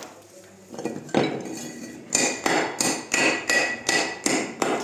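Hammer striking repeatedly in rockface stone cladding work: a blow or two about a second in, then a steady run of about three sharp blows a second, each with a short metallic ring.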